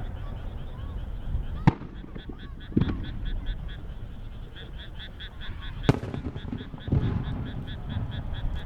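Aerial firework shells going off: two sharp cracks about four seconds apart, each followed about a second later by a deeper boom, over a steady low rumble. A rapid, even chirping of about four to five pips a second runs in the background.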